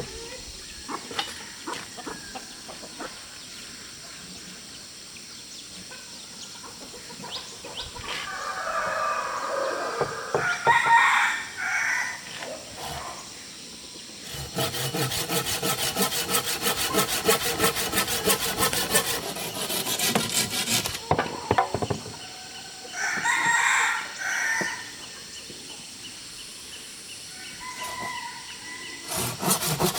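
A rooster crowing twice, with a stretch of steady sawing through wood between the crows; the sawing starts again near the end.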